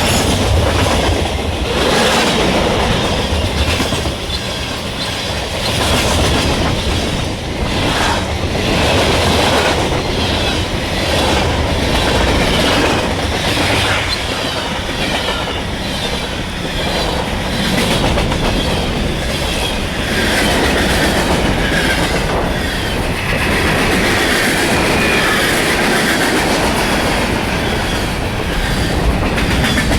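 Freight train cars rolling past, their wheels clattering over the rail joints in a steady run of clicks and rumble.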